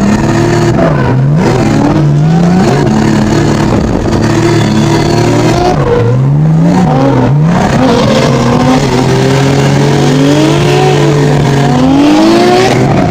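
Drift car's engine heard from inside the cabin, revving up and falling back again and again as the throttle is worked through the drift, with a few seconds held at steady high revs near the end.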